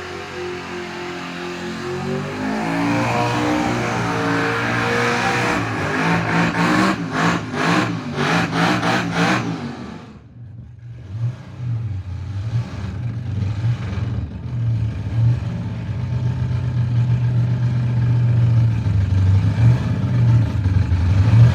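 Supercharged car engine revving, its pitch climbing over the first few seconds, with a rapid even pulsing before it drops away suddenly about ten seconds in. It then holds a steadier note that grows louder toward the end.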